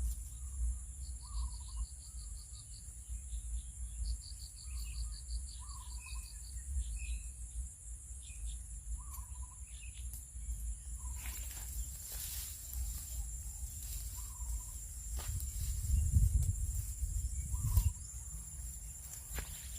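Crickets and other insects trilling steadily, with a short call repeating every few seconds. Wind rumbles on the microphone throughout, stronger in gusts near the end.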